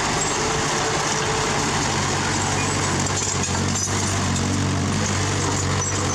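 Heavy diesel engine of earthmoving machinery running steadily under load, a deep even drone with a dense mechanical rattle over it.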